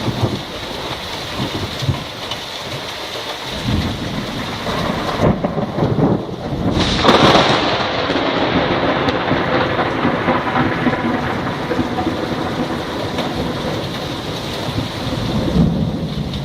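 Steady rain falling during a thunderstorm, with thunder rumbling; a loud thunderclap about seven seconds in, trailing off into a long rumble.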